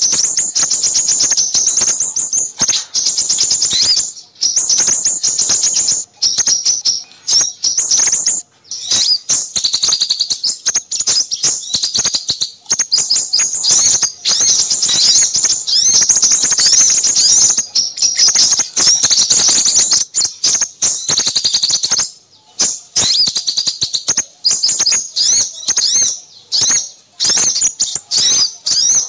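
A dense chorus of small songbirds, many high, rapid chirps and trills overlapping with hardly a break. It is a bird-lure recording of mixed small-bird calls, played to attract crimson sunbirds.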